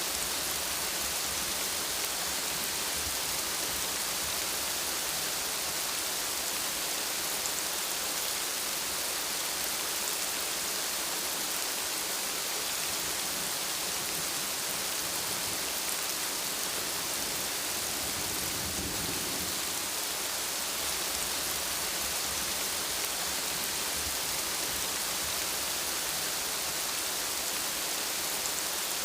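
Steady rainfall hissing evenly, with a low rumble of distant thunder about two-thirds of the way through.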